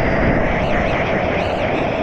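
Loud, steady rush of whitewater on a river rapid.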